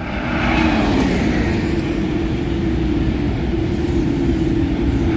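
Eurostar high-speed train passing at speed: a steady, loud rush and rumble with a low hum that drifts slightly down in pitch.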